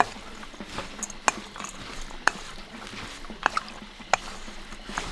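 Dishes and utensils clinking: about six sharp, short clinks with a brief ring, irregularly spaced, as food is served.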